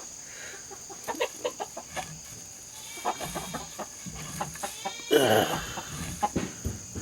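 Australorp chickens clucking: a run of short clucks, then pitched calls and one louder drawn-out call about five seconds in.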